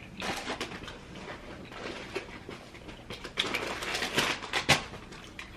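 Crab legs being cracked and pulled apart by hand, shells crackling with a run of sharp snaps, loudest near the end, along with wet sauce handling.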